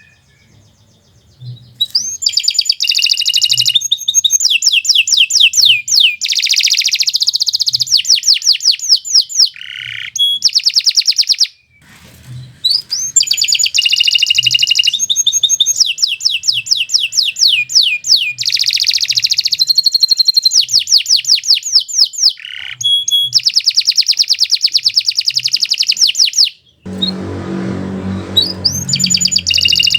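Domestic canary singing long phrases of rapid trills and whistles, with short breaks between phrases. A brief low rumble comes near the end.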